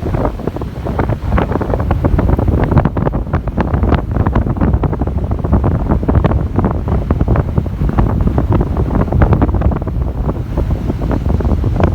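Strong onshore wind buffeting the microphone in constant rumbling gusts, over the wash of high surf breaking on the beach.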